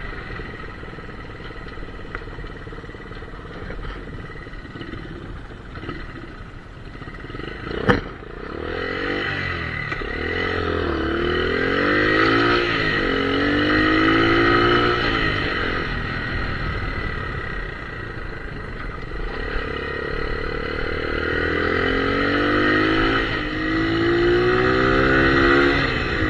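Honda CT70 Trail 70's small single-cylinder four-stroke engine running during a ride, fairly quiet at first, with a sharp click about eight seconds in. Then the engine pitch climbs and falls back again and again, as it is run up through the gears, in two louder spells.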